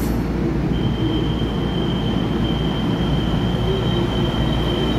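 TEMU2000 Puyuma tilting express train (set TEMU2011+TEMU2012) running into the station, with a steady low rumble. A high, steady squeal sets in about a second in as the train comes in alongside the platform.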